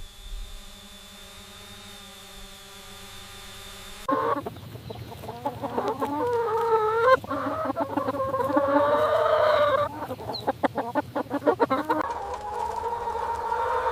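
A steady low hum for the first few seconds, then chickens calling and clucking loudly, with a rooster crowing and a quick run of rapid clucks a little before the end.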